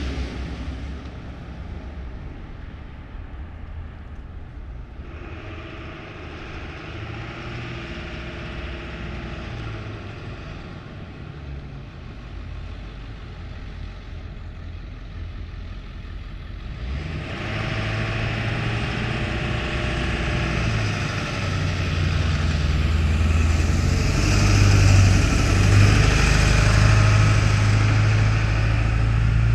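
Road traffic: a motor vehicle's engine rumble and tyre noise, growing louder a little over halfway through and loudest near the end as it comes close.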